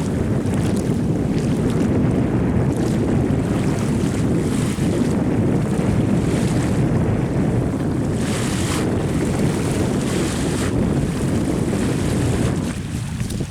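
Strong wind buffeting the microphone in a steady low rumble, over the wash of sea waves, easing off near the end.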